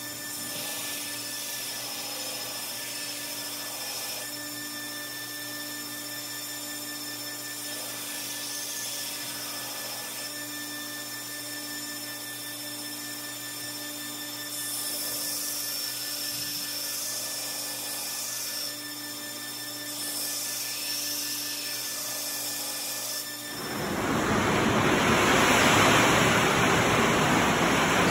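A steady machine hum with a few constant tones runs through most of the stretch. About 23 seconds in it gives way to heavy rain pouring down, a dense, even rushing that is much louder.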